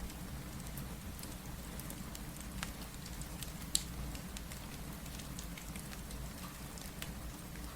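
Fireplace crackling with scattered sharp pops, the loudest a little under four seconds in, over the steady hiss of rain and a low rumble.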